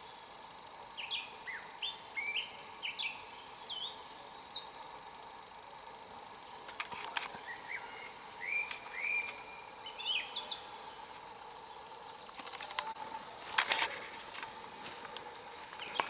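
A songbird singing two phrases of quick, high, sweeping chirps. Several sharp crackles and knocks come near the end and are the loudest sounds.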